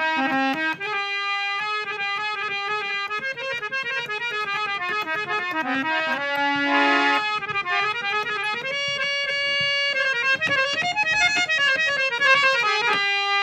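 An old hand-pumped harmonium, over 50 years old, played solo: a reedy melody of quick running notes over held drone notes, with brief sustained chords.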